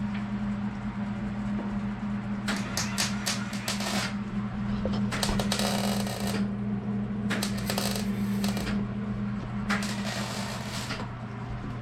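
Welder laying four short tack welds on the floor patch panels of a 1967 Plymouth Barracuda. Each burst is a crackling sizzle of about a second, heard over a steady low hum.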